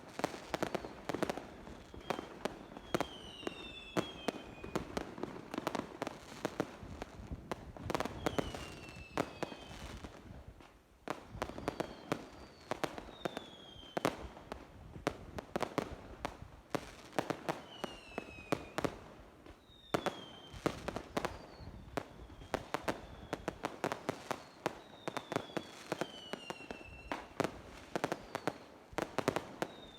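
Fireworks display: a dense run of sharp bangs and crackles, several a second, with whistles that fall in pitch every few seconds. A brief lull about ten seconds in.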